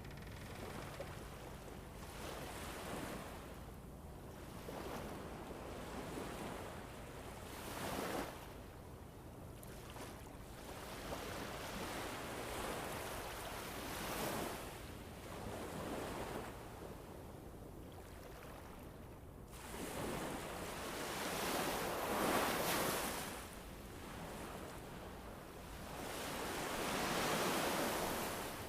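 A rushing nature-sound bed that swells and fades in slow surges every few seconds, with the biggest surges in the last third.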